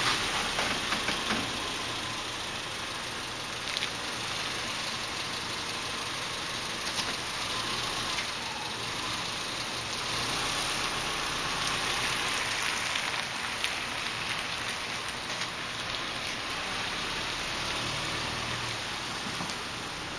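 Subaru Impreza wagon's flat-four engine running low as the car moves slowly on a concrete driveway, under a steady hiss; the engine hum swells a little about halfway through and again near the end.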